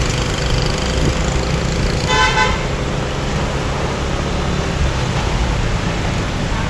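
Steady low rumble of a motorbike riding in city traffic, with a vehicle horn honking once, briefly, about two seconds in.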